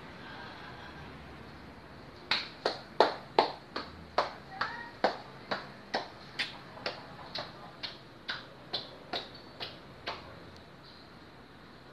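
Lovebird giving a run of short, sharp chirps, about two a second, starting a couple of seconds in and growing fainter toward the end.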